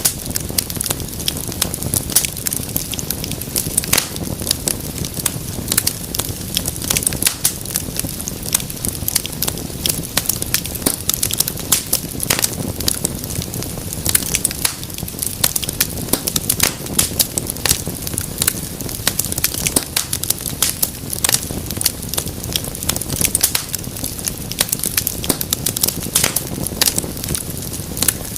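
Wood fire crackling in a fireplace: dense, irregular sharp pops and snaps over a steady low rumble of flames.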